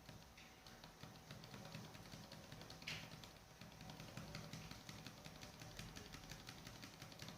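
Near silence: room tone with a faint steady hum and faint scattered ticks, one a little louder about three seconds in.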